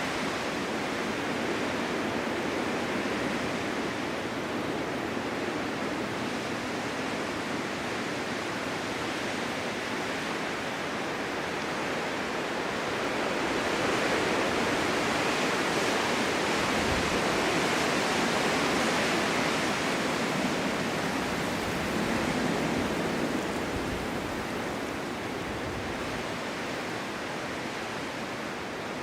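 Snowstorm wind blowing steadily as an even rushing noise, swelling into a stronger gust about halfway through and easing off again.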